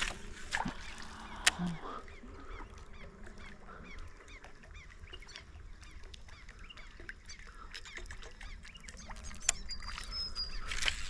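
Many short, repeated bird calls, with a couple of sharp clicks in the first two seconds.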